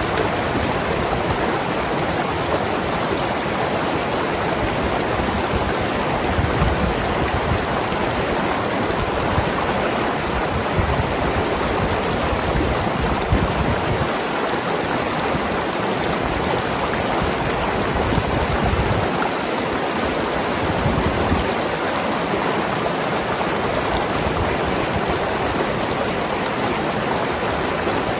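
Mountain river flowing and gurgling over rocks: a steady rush of water.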